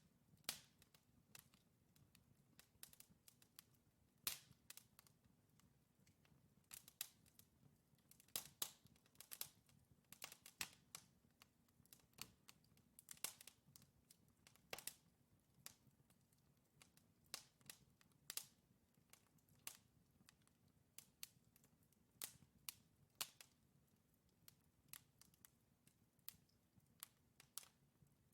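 Wood fire in a fireplace crackling: burning logs give irregular sharp pops and snaps, several a second at times, over a faint steady low hiss.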